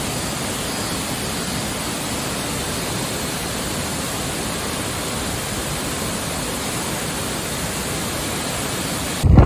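Steady, even rush of falling water from a waterfall. Near the end it cuts off abruptly and gives way to low wind rumble on the microphone.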